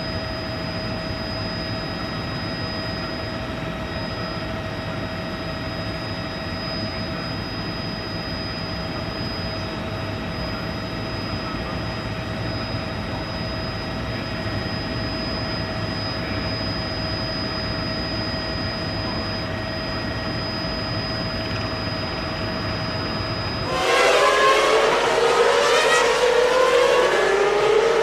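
A steady, noisy hum carrying two high held tones; about 24 seconds in it cuts suddenly to a loud Formula One V10 engine at high revs, its pitch rising and dropping through gear changes.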